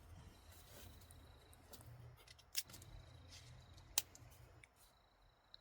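Faint handling noise: a few sharp clicks and snaps over a low rumble, the loudest snap about four seconds in.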